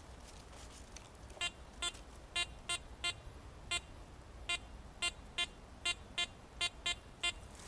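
Metal detector giving a string of short electronic beeps, about fourteen at uneven intervals as it is swept over a buried target; the detectorist wonders afterwards whether it is signalling iron.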